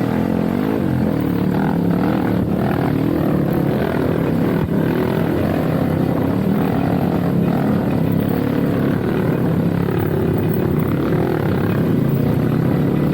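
Dirt bike engine running under load while riding on a trail, its revs rising and falling.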